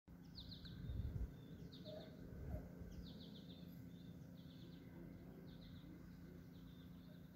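Small songbirds singing: short, quick trilled phrases repeated about once a second, over a steady low hum. Two brief low rumbles hit the microphone about one and two and a half seconds in.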